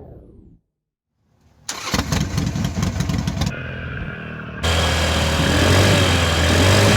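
A motorcycle engine is started: fast stuttering starter cranking as it catches, then it settles and runs loud and steady, its note stepping up slightly near the end. The intro music fades out just before it.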